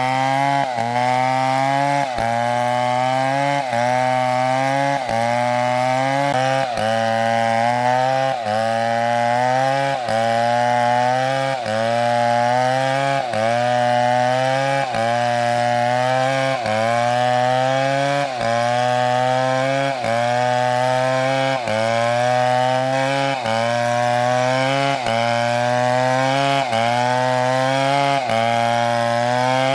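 Two-stroke chainsaw cutting wood under load, its engine pitch dipping sharply and climbing back about every second and a half.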